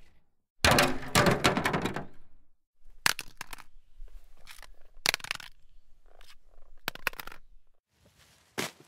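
A sharp crash that dies away over about a second and a half, then a run of separate knocks and clattering hits over a low rumble for about five seconds, and one short knock near the end.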